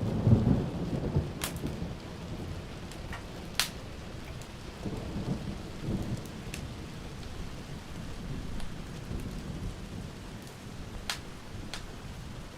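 Thunder rumbling over steady heavy rain, the loudest rumble right at the start and lower rolls about five to six seconds in. A few sharp pops from a crackling wood fire come through now and then.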